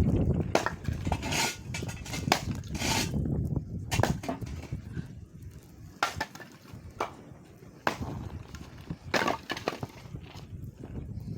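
Firewood being split: irregular sharp knocks and cracks of wood, about a dozen, unevenly spaced, a few with a longer splintering crack.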